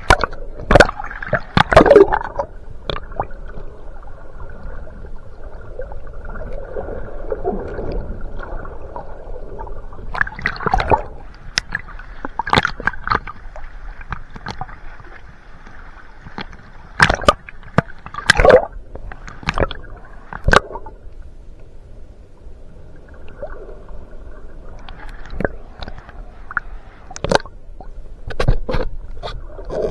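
Water sloshing and gurgling around a camera in rough water, with irregular sharp splashes and knocks coming in clusters.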